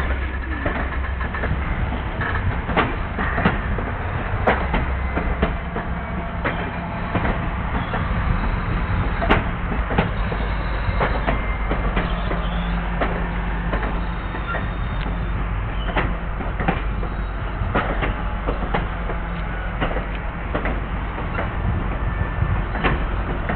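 Circus train cars rolling past at steady speed: a continuous rail rumble broken by frequent clicks and clanks of the steel wheels over the rail joints.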